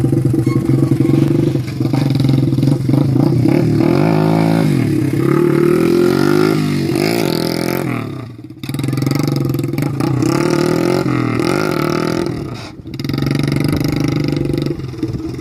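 Honda Chaly mini motorcycle's small single-cylinder four-stroke engine running and being revved up and down several times, its pitch rising and falling, with the throttle eased off briefly twice, about eight and thirteen seconds in.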